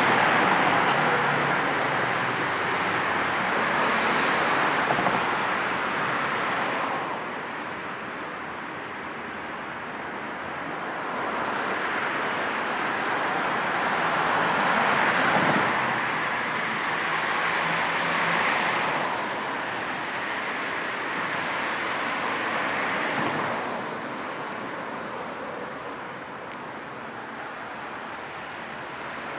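Road traffic: a steady hiss of cars and tyres, with several vehicles passing by one after another, swelling and fading over a few seconds each.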